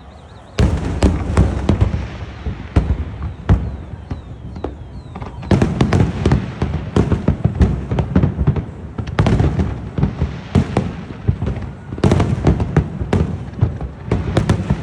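New Year's fireworks going off in a dense barrage of bangs and crackling pops, starting suddenly about half a second in, easing off briefly around a third of the way through, then dense again.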